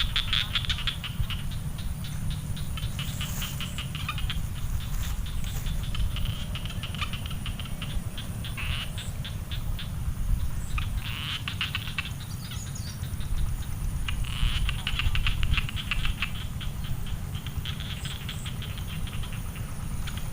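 Frogs calling in rapid clicking trills that come in bouts of a second or two, every few seconds, over a low rumble.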